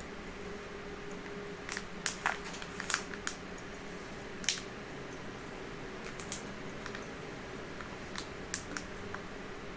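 Close-miked eating of cake: scattered soft wet mouth clicks and smacks of chewing, clustered through the middle of the stretch, over a steady low hum.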